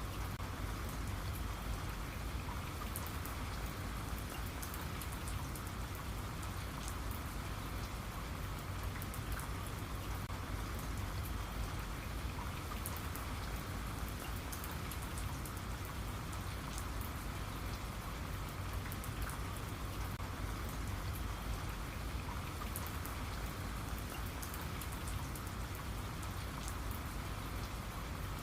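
Steady rain falling on a surface, with many small drop ticks.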